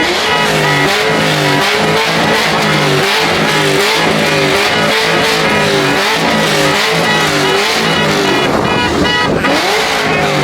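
Car engine revving hard again and again, its pitch climbing and dropping about once a second in a loud, unbroken run.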